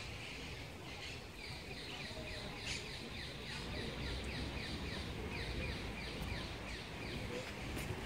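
A small bird calling a long run of quick, evenly repeated falling notes, about three a second, over a steady low background rumble.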